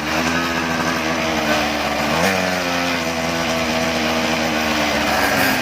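Small engine of a mini bike running steadily with a buzzy, even note, with a brief change in pitch about two seconds in.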